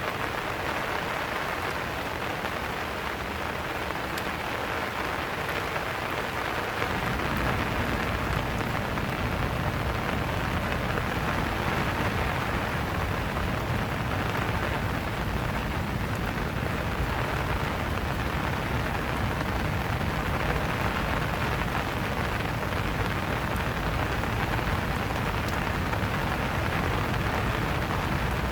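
Steady rain falling, a dense even hiss of drops. About seven seconds in, a low rumble joins underneath and stays.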